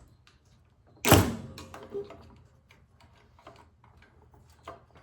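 Tools and parts knocking against a snowblower engine while a stuck fuel line is worked off the carburetor: one loud clunk about a second in with a brief ring after it, then a few lighter clicks and taps.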